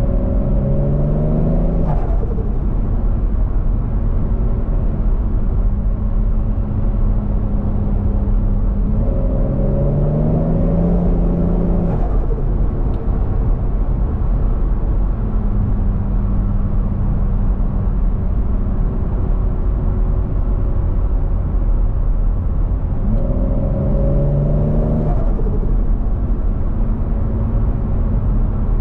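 Turbocharged Toyota 1JZ-GTE VVT-i straight-six in a Scion FR-S pulling hard three times, its pitch rising for two to three seconds each time. Each pull ends sharply in a short burst of turbo flutter as the throttle closes. In between it cruises steadily over a constant road rumble.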